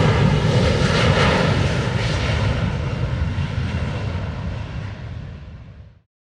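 Aircraft engine noise from a passing plane, fading gradually, then cutting off suddenly about six seconds in.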